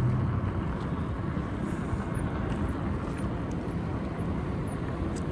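Steady rumble of wind and road noise from riding an electric bike, with no distinct engine tone.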